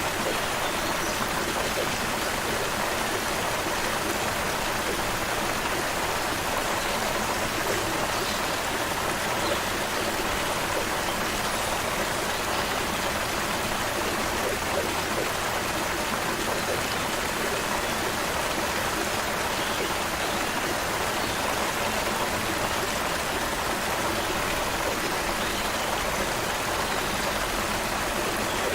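Creek water flowing, a steady even rush without breaks.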